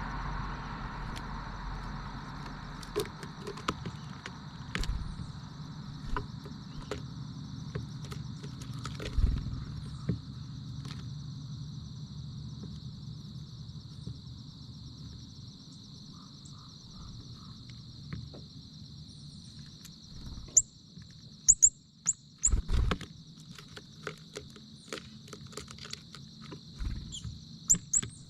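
Outdoor ambience dominated by a steady high-pitched insect drone, with scattered clicks and knocks. A few short, high bird chirps come about three-quarters of the way through and again near the end.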